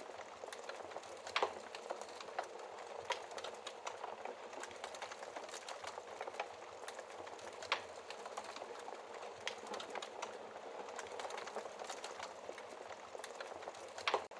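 Wood fire burning in a fireplace: a steady hiss of flames with constant irregular crackling and a few louder pops from the burning logs.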